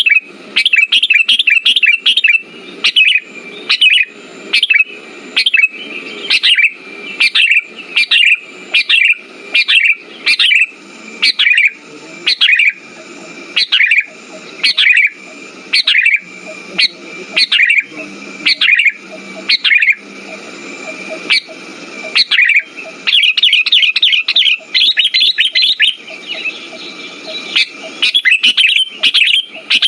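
Sooty-headed bulbul (kutilang) calling over and over in short bright chirping phrases, about one a second, with a faster run of notes about three-quarters of the way through. A faint steady high tone sits underneath.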